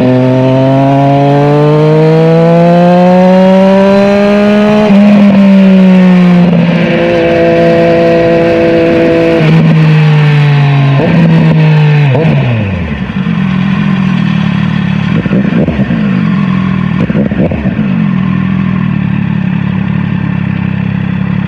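Triumph Daytona 765 Moto2's three-cylinder engine accelerating. It revs up for about five seconds, drops at an upshift and holds steady. About twelve seconds in, the throttle closes and the revs fall away to a lower steady running note, with a few short blips of throttle.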